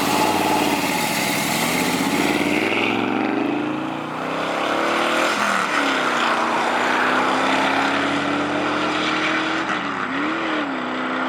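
Car engine revving hard as the car accelerates. The pitch climbs, drops sharply about five seconds in, then climbs slowly again.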